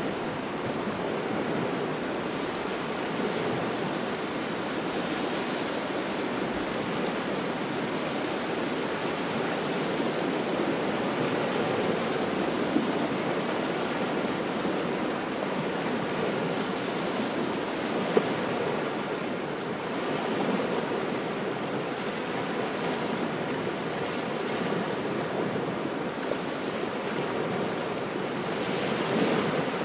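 Cold wind and small waves washing onto a shore: a steady rushing noise that swells as a wave comes in about every twelve seconds, with two brief ticks in the middle.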